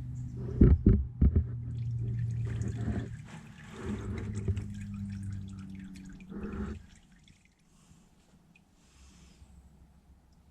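A couple of sharp knocks, then engine oil splashing and dripping into a drain pan as the oil filter is loosened from the engine, over a steady low hum. After about seven seconds only a faint trickle is left.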